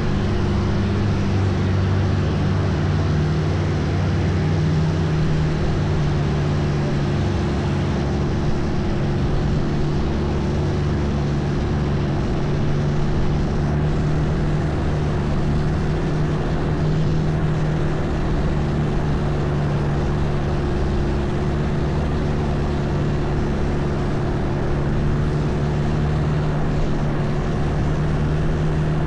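Long-tail boat engine running steadily at a constant speed, a loud, even drone.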